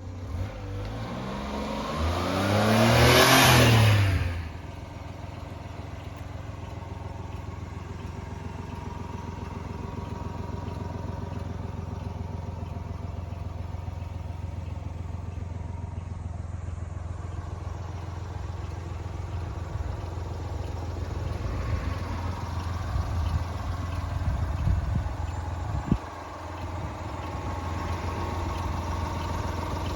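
1996 Honda Acty mini truck's small three-cylinder engine rises in a brief rev near the start, then falls back and idles steadily. A single sharp click comes about four seconds before the end.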